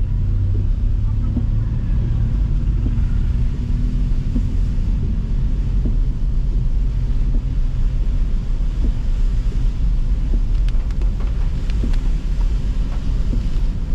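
Steady low rumble of a car being driven, engine and road noise heard from inside the cabin, with a few faint ticks near the end.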